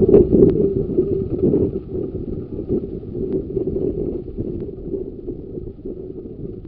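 A Ravenglass and Eskdale Railway 15-inch gauge train running on the rails: a low rumble with a few sharp clicks in the first half second, fading steadily away.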